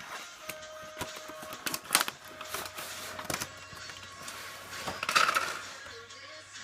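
A model airplane's box being opened by hand: scattered clicks and light knocks of packaging being handled, with a short rustle or scrape about five seconds in.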